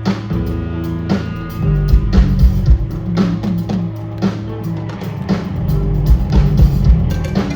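Live rock band playing an instrumental passage: electric guitar and bass over a steady drum beat.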